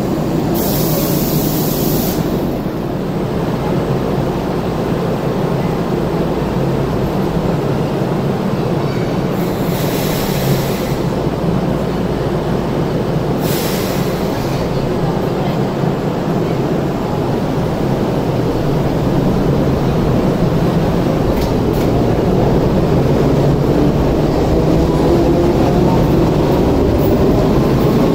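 Enoden (Enoshima Electric Railway) electric trains running slowly past, a steady rumble of wheels and motors. Three short high-pitched bursts come through it: one right at the start, one about ten seconds in and one near fourteen seconds.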